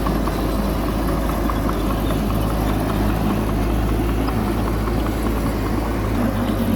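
Heavy diesel engine running steadily at an even speed, with a low rumble and faint scattered ticks and rattles.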